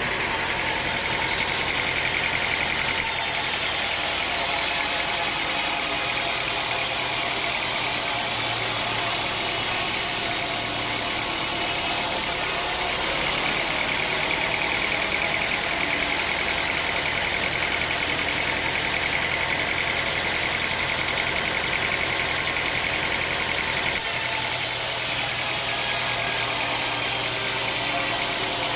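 Sawmill machinery running steadily: a motor running with an even, high whine, with no break.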